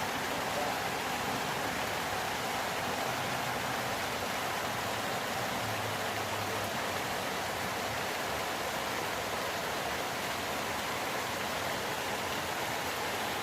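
Steady summer rain falling: an even, unbroken hiss of rainfall.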